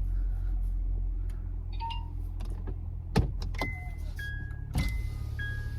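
Inside a Honda Freed minivan: a steady low hum, two sharp clicks, then from about halfway a repeating electronic chime of short beeps alternating between a higher and a lower note about every half second.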